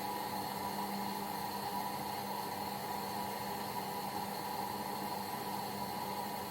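Bauknecht WA PURE ST 14 FLD front-loading washing machine running its steam self-cleaning programme: a steady hum over an even hiss, with no clear change.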